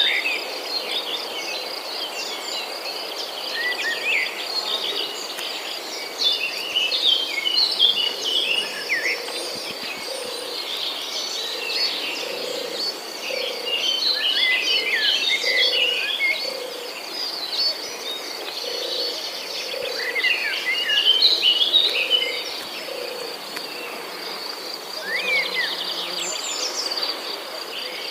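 Rainforest ambience: a steady high insect trill beneath many short bird chirps and calls. Through the middle, a low note repeats about once a second.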